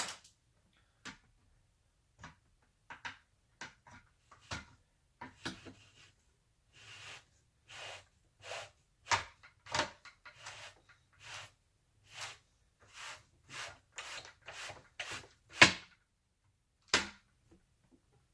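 Irregular clicks, knocks and short scrapes of a power-slider rear window assembly being moved and worked by hand, its parts shifting and bumping together. Two sharper knocks come near the end.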